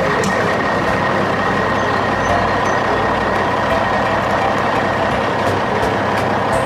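Steady mechanical running noise, like an engine or motor, with a thin high whine held at one pitch throughout.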